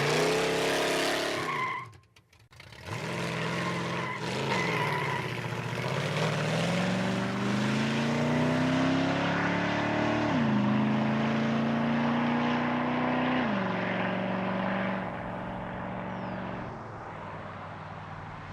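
Car engine revving, its pitch swooping up and down, dropping out briefly about two seconds in, then climbing steadily before falling in two sudden steps and fading near the end.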